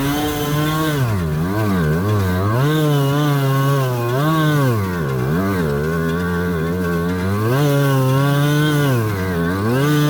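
Kreidler Florett's 50cc two-stroke engine revving hard, its pitch swinging up and down every second or so as the throttle is worked, pushing the little motorcycle through a deep creek crossing.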